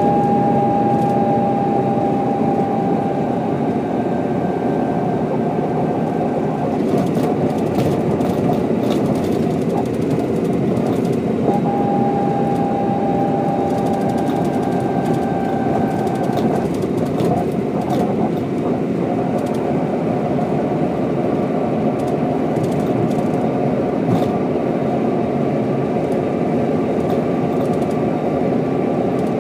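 Mercedes-Benz O407 bus's diesel engine running steadily under way on a country road, heard from inside the passenger compartment. A thin steady whine rises above the engine twice, for a few seconds each time, sagging slightly in pitch as it fades.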